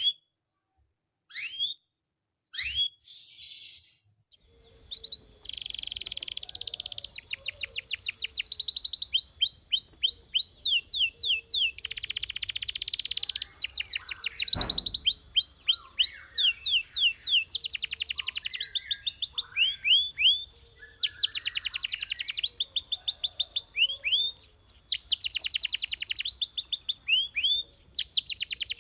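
Belgian canary singing: a few short chirps, then from about five seconds in a continuous song of rapid trills and buzzy rolls.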